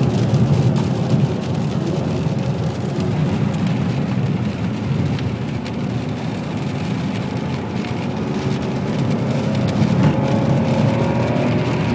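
Ferrari 599 GTB Fiorano's V12 engine running on the move, with a steady hiss of tyres on a wet road. In the later part the engine note rises as the car accelerates.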